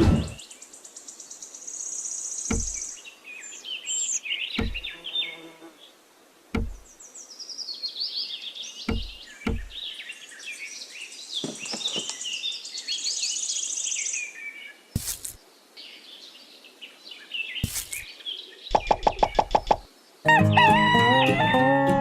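Birds chirping in short high calls, with about a dozen separate sharp knocks and, near the end, a fast run of clicks lasting about a second. Background music comes in near the end.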